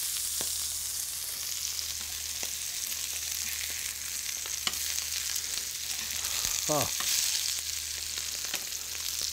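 Slices of foie gras sizzling and frying in a hot, dry pan, rendering out their own fat. A few short clicks of metal tongs against the pan come through the steady hiss.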